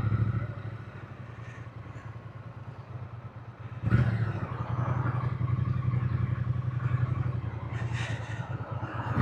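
Triumph motorcycle engine running under way, heard from the rider's helmet; it is quieter for the first few seconds, then comes in louder about four seconds in and stays steady.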